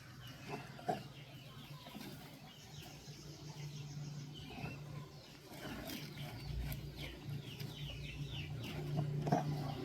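Birds chirping over and over in short calls, over a steady low hum, with a few sharp taps near the start and a knock near the end.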